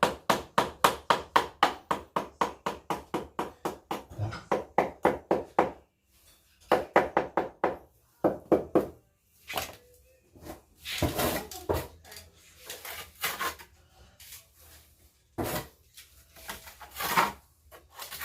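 Rapid, even scraping strokes at about four to five a second, stopping about six seconds in, then scattered bursts of scraping and rubbing: a hand tool worked against masonry.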